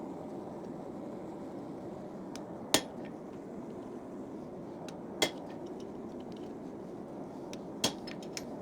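Three separate hammer blows on steel, forging a railroad spike, each a sharp metallic strike with a brief ring, about two and a half seconds apart, over a steady low rushing noise.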